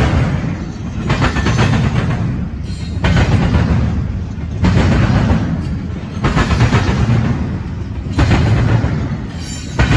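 Union Pacific double-stack intermodal train rolling past, a steady low rumble of steel wheels on rail. About every one and a half to two seconds, a loud clatter of wheels pounding over the rail diamond crossing breaks through.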